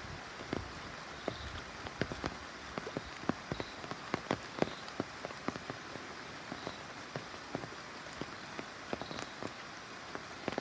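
Rain falling, a steady hiss with many irregular sharp drops pattering on a surface.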